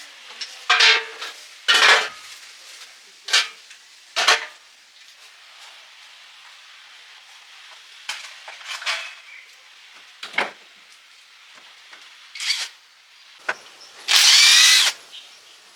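Hand work with metal tools and parts: a string of short knocks and scrapes, then a power drill runs for about a second near the end.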